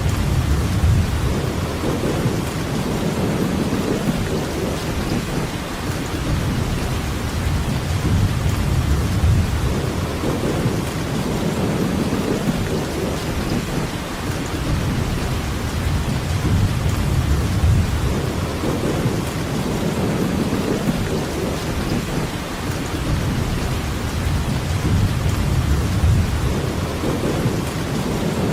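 Steady heavy rain hissing, with low rolling thunder rumbles that swell and fade every few seconds.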